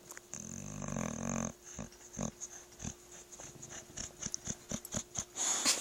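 A dog snoring: one long rattling snore about a second long, then a run of short, irregular snuffles and clicks.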